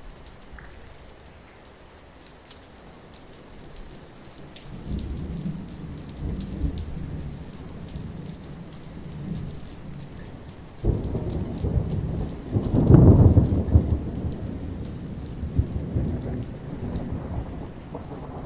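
Thunderstorm with steady rain and thunder. A low rumble builds about a quarter of the way in. A little past halfway a sudden loud thunderclap breaks and rolls on, loudest a couple of seconds later, then dies away slowly under the rain.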